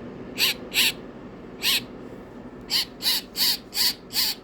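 Baby bird calling: short, raspy calls, eight in all. A pair comes first, then a single call, then five in a quicker run near the end.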